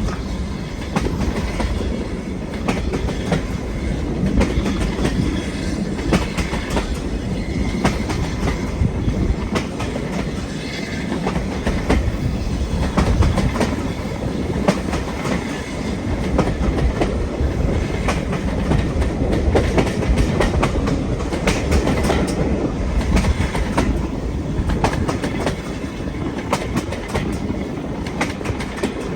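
Railway train running steadily along the track: a continuous low rumble with the wheels clicking over the rail joints.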